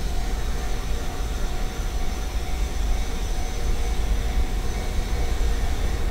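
Steady low rumble of an approaching freight train hauled by a JR Freight EF210 electric locomotive, with a faint steady whine above it and no wheel-on-rail-joint clatter yet.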